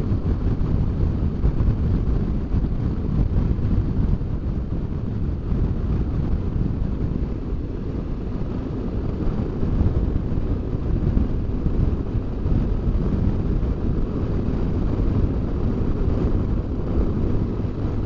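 Onboard sound of a BMW R1200GS Adventure motorcycle on the move: steady wind rush over the microphone with the engine's low drone underneath.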